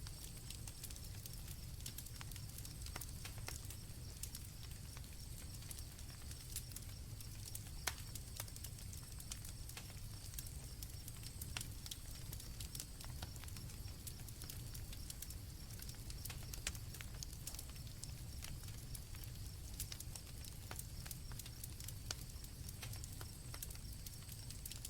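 Campfire crackling, with irregular sharp pops and snaps over a low steady rumble, and crickets chirping in a steady high-pitched trill behind it.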